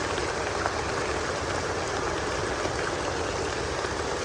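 Steady heavy rainfall, an even hiss of rain pouring down, with a few faint drip ticks.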